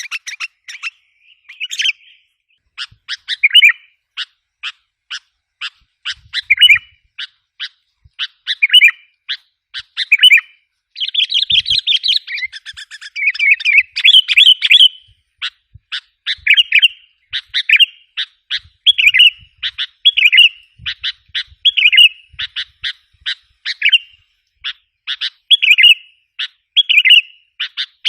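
Sooty-headed bulbul calls in rapid runs of short, sharp chirps, with a denser chattering stretch about eleven seconds in. It is a lure recording made to provoke wild bulbuls.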